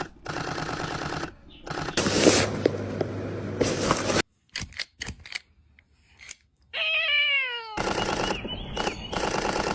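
Cat meowing: a long meow about seven seconds in that falls in pitch, among other noisy sounds that start and stop abruptly.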